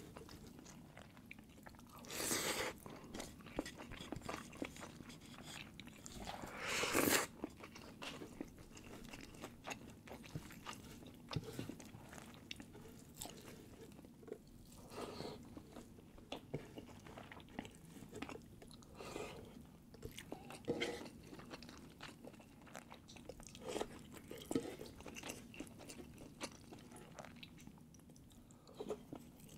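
A person chewing and biting food close to the microphone, with many small mouth clicks and two louder noisy bursts about 2 and 7 seconds in.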